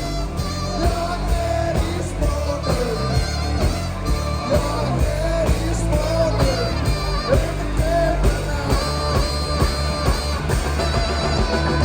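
Live rock band playing an up-tempo song, with a steady beat, electric guitar and singing.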